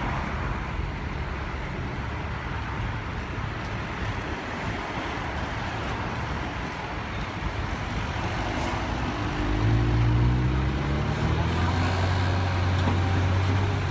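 Diesel engines of heavy road-construction machinery running, a steady rumble with a hiss over it. About ten seconds in a nearer engine comes in louder, its pitch shifting as it revs.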